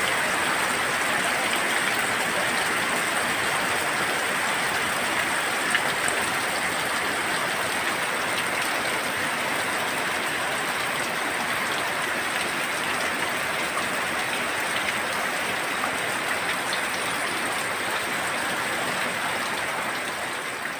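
Heavy tropical rain pouring down steadily, a continuous even hiss of rain on leaves and roofs.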